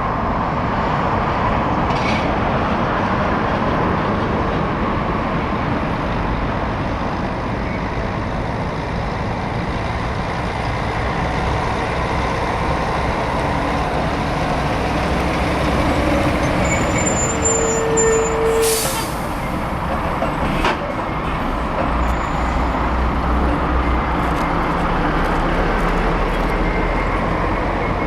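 Heavy diesel trucks running and passing close by. About two-thirds of the way through comes a short, sharp hiss of air brakes.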